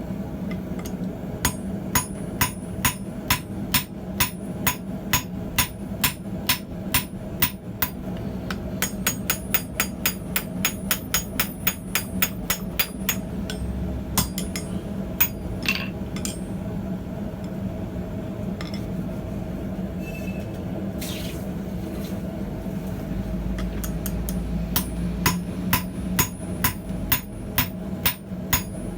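Blacksmith's hammer striking hot steel on an anvil, about two to three ringing blows a second, with a pause of roughly ten seconds in the middle before the hammering resumes near the end. A steady hum runs underneath.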